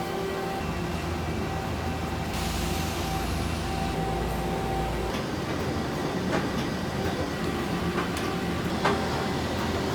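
Metal lathe running with a steady mechanical hum and low rumble, with a few sharp ticks in the second half.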